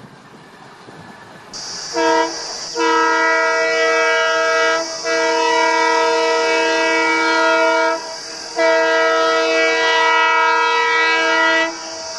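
Train horn sounding a short blast, then three long blasts with brief breaks between them, a steady chord of several tones, over a steady hiss.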